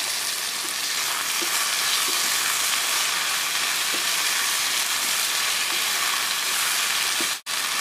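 Sliced ivy gourd (kovakkai) with onion and green chilli sizzling steadily in hot oil in a kadai while being stirred with a wooden spatula, with a few faint scrapes and taps of the spatula. The sound drops out for an instant near the end.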